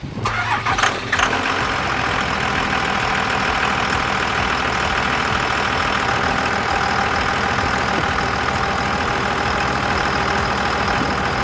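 12-valve Cummins inline-six diesel with a straight-piped exhaust comes in suddenly with a few uneven beats, then settles into a steady idle.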